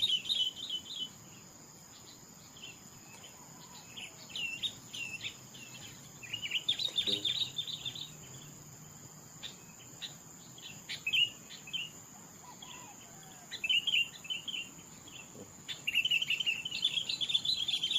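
Small birds chirping and calling in quick, repeated phrases, coming in several bouts with short gaps between them and a longer, denser bout near the end. A steady high insect buzz runs underneath.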